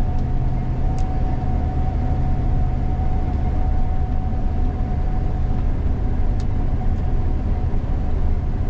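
Gleaner combine harvester running steadily while harvesting soybeans, heard from inside its cab. It is an even low rumble with a constant whine above it.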